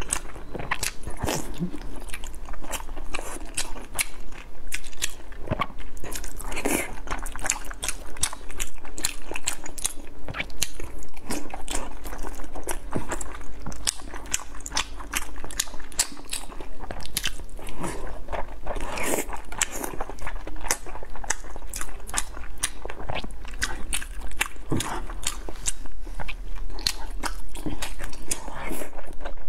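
Close-miked eating of pan-fried dumplings: biting and chewing in a rapid, irregular run of mouth clicks and smacks.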